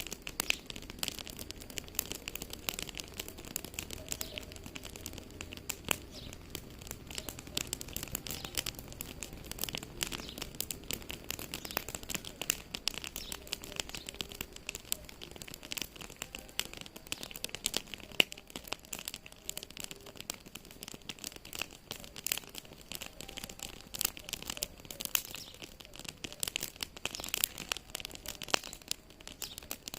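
Wood fire crackling in a fireplace: a dense, irregular run of small sharp pops and snaps over a faint steady hiss.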